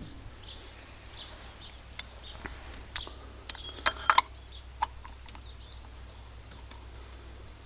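Small birds chirping again and again in quick, high twitters. A few sharp clicks stand out, a cluster about three and a half to four seconds in and one more near five seconds.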